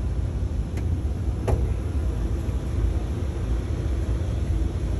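Steady low rumble of an E261-series electric limited-express train running, heard inside the passenger car. Two light clicks come about a second in, from the seat's fold-out tray-table arm being swung out of the armrest.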